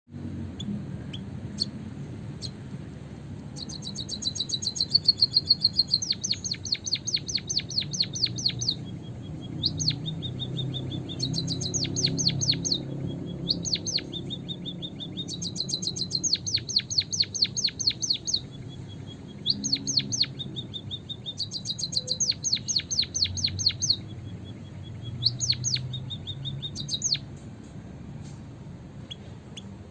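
White-headed munia (emprit haji) calling: repeated runs of rapid, high, thin chirps, each run a second or few long, broken by short pauses.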